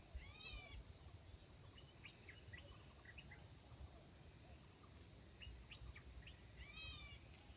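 Faint calls of small wild birds: a short, high, stuttering call just after the start and the same call again near the end, with scattered short chirps between them.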